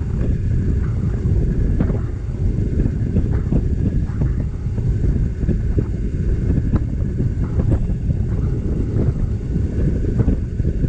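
Wind buffeting the microphone of a moving motorbike, a loud, ragged low rumble with engine and road noise underneath.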